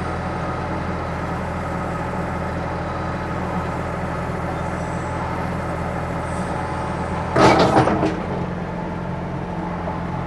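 Ford 555 backhoe's diesel engine running steadily under work. About seven seconds in there is a sudden loud, harsh burst lasting about half a second.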